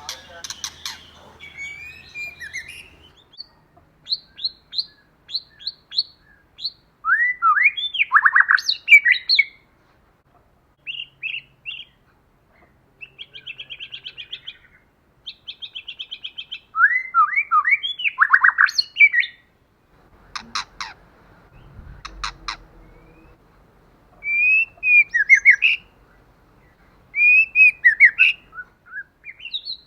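White-rumped shama singing: varied phrases of clear whistles, sweeping notes and rapid trills of repeated notes, separated by short pauses. A couple of sharp clicks come about twenty seconds in.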